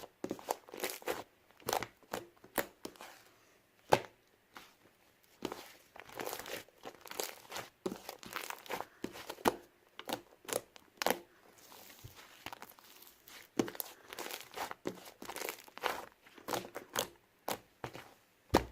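Slime being squeezed and poked by hand, giving irregular crackling clicks and small pops, several a second, with a sharper click about four seconds in.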